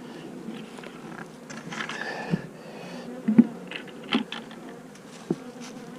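Honeybees buzzing steadily around an open hive, broken by four short, sharp knocks from about two seconds in, the loudest in the middle.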